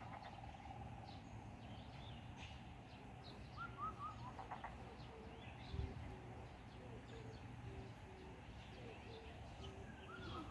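Several wild birds chirping and calling: scattered high chirps, a quick three-note call about four seconds in, and a run of short low repeated notes through the second half, over a faint steady hum.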